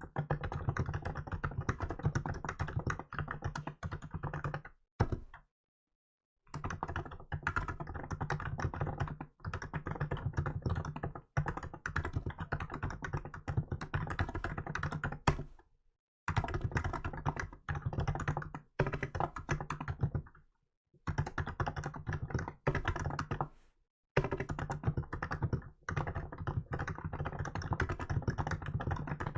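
Fast typing on a Hansung GK868B electro-capacitive keyboard with milk keycaps, a dense run of muted key strokes. It is broken by a few short pauses, the longest about five seconds in.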